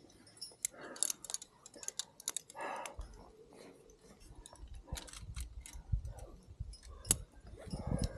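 Scattered sharp clicks and knocks, with wind buffeting the microphone from about three seconds in.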